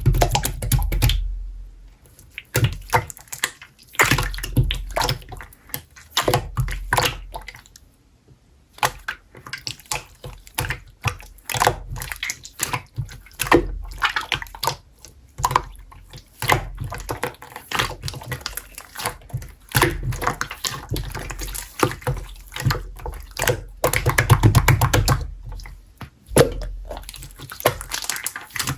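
Slime being squished, pressed and stretched by hand, giving a dense run of irregular wet squelches, small pops and clicks.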